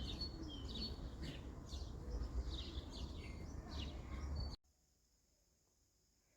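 Small birds chirping over steady outdoor background noise, cutting off abruptly about four and a half seconds in, followed by near silence.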